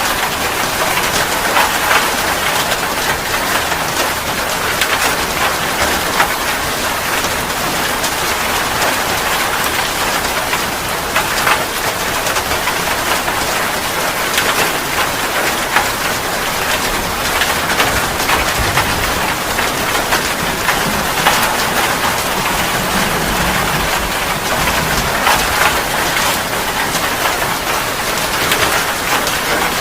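Heavy rain falling steadily on a hard surface, with a dense patter of individual drops.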